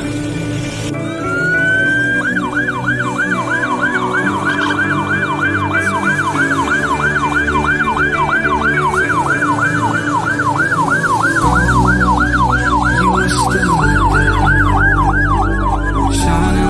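Electronic siren, wailing up once about a second in and then switching to a fast yelp, rising and falling about three times a second, with a steady low drone underneath that gets louder about eleven seconds in.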